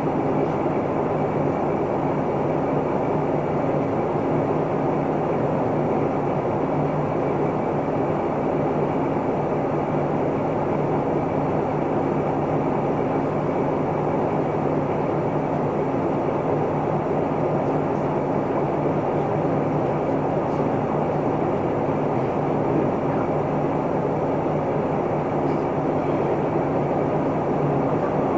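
Isuzu Erga Mio city bus running along, heard inside the passenger cabin: a steady engine hum with road noise, holding an even level throughout.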